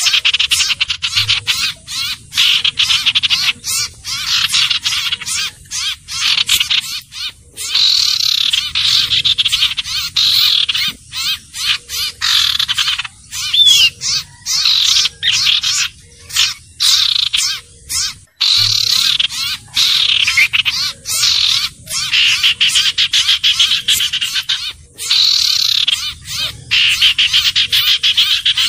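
Lure recording of common iora (cipoh/sirtu) calls: rapid, dense chattering notes repeated almost without pause, broken by brief gaps, with a single rising note about halfway through.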